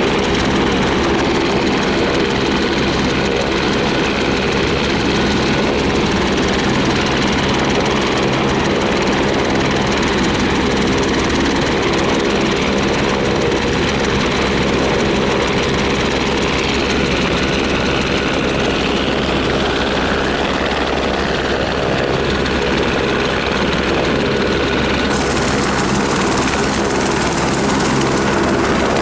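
Helicopter running steadily: a loud, even drone of turbine and rotor with a stack of steady tones and no let-up.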